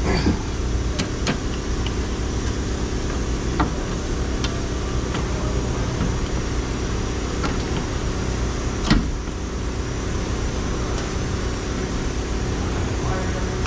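Steady mechanical hum running throughout, with scattered sharp metallic clicks and knocks, the loudest about nine seconds in, as steel suspension parts are worked into place by hand.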